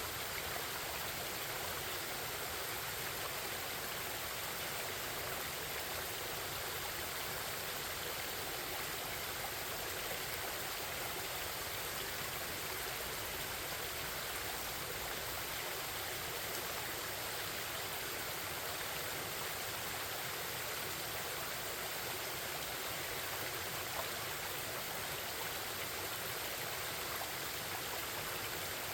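Forest stream babbling: a steady, unbroken rush of flowing water.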